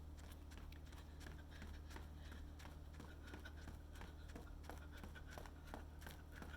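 Footfalls of a runner jogging at a steady pace: a quick, even rhythm of faint steps, about two to three a second, over a low steady hum.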